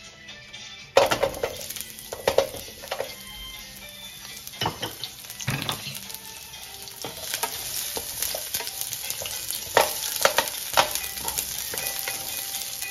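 Sliced red onion going into hot oil and garlic in a nonstick wok, with a sudden start of sizzling about a second in. The sizzle then carries on steadily, with knocks and scrapes from a wooden spatula stirring the onions.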